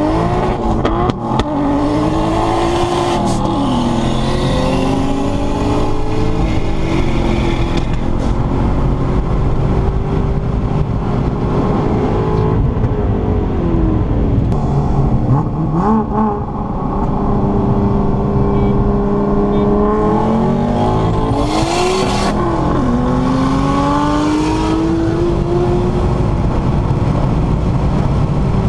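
A car engine at full throttle, heard from inside the cabin, its pitch climbing and dropping back again and again as it shifts up through the gears, over road noise.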